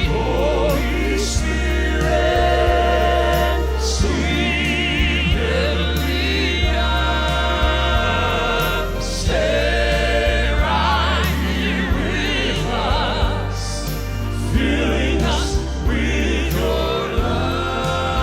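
Slow gospel worship song: voices singing with wide vibrato over a steady bass line, with light sharp percussion hits.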